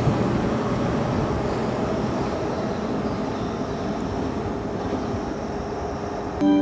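Keihan electric train running on the line, its rumble slowly fading away. Right at the end a station chime melody starts.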